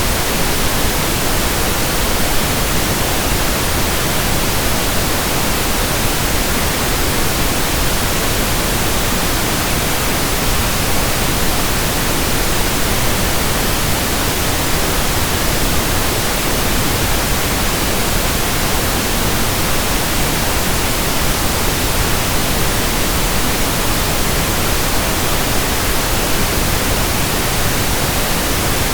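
Steady, unchanging pink noise: an even hiss spread across low and high pitches with no events in it.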